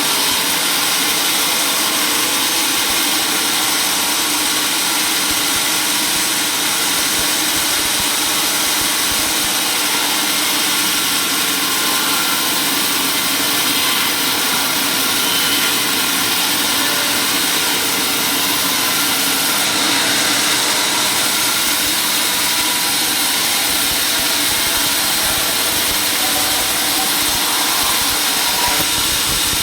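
Sawmill machinery running steadily, an engine-type drone with a high, even hiss, holding the same level throughout with no cut starting or stopping.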